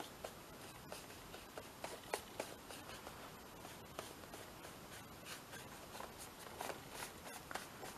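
Faint, scattered light taps and scratches of distress ink being dabbed and brushed onto a paper collage page.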